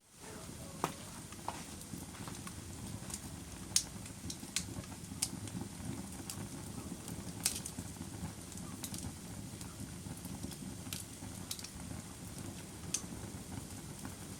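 Fire crackling: a low, steady rush of burning with irregular sharp pops and snaps, a few of them louder. The sound cuts out for an instant at the very start and then comes back.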